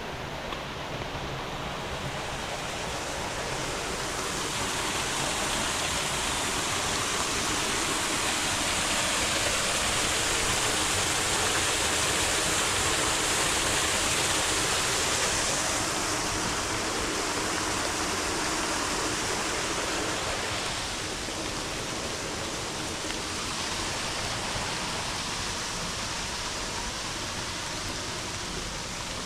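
A flooded creek rushing hard with muddy storm water, a steady wash of noise that grows louder for several seconds and then eases.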